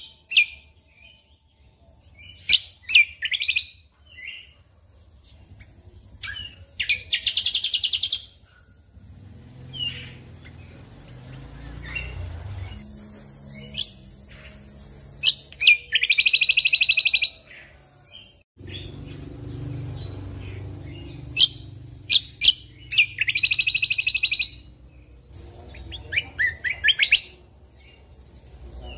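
Cucak kombo (kecial kombo) songbird singing: sharp, high single notes broken by three rapid, loud trills, each lasting about a second and a half. A low rumble sits under the middle of the song, and the sound drops out abruptly for an instant about two-thirds of the way through.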